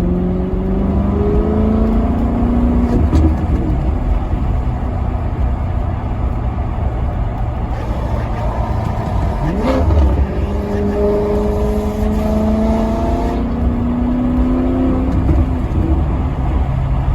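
Maserati Quattroporte Sport GT's V8 engine accelerating, its pitch climbing in several long runs through the gears. About ten seconds in there is a quick throttle blip, the revs shooting up and dropping straight back.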